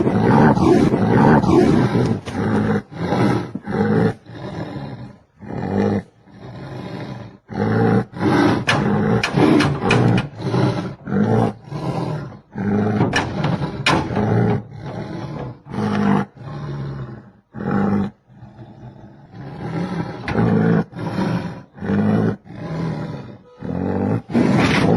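Tiger roaring and growling in a long run of short calls, about one a second, with a few brief pauses.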